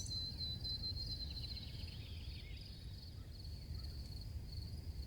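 Faint crickets chirping in a steady, pulsing high trill, with a few soft bird chirps and a low background rumble.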